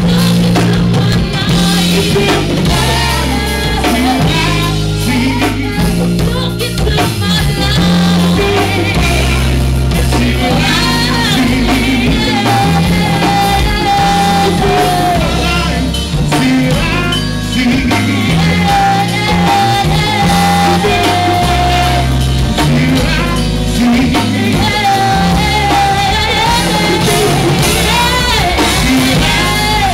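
A live band playing with a singer, heavy bass and drums under long held sung notes.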